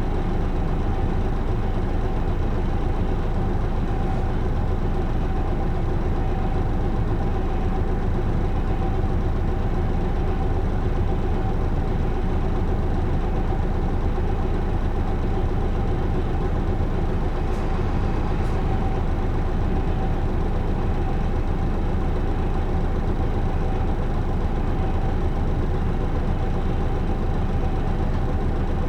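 Isuzu Erga (PJ-LV234L1) city bus's diesel engine running steadily, a continuous drone with a faint steady whine. Two brief clicks come about two-thirds of the way through.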